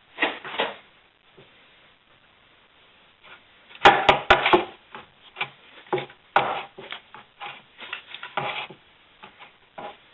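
Irregular knocks, clicks and scraping from hand work greasing a wheel, loudest in a cluster with a few sharp clicks about four seconds in.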